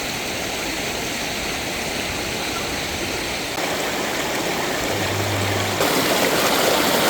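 Steady rush of a mountain valley stream flowing over rocks, growing louder about three and a half seconds in and again near the end.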